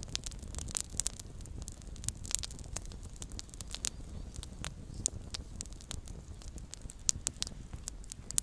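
Small campfire burning, with many sharp, irregular crackles and pops over a low, steady rumble of the flames.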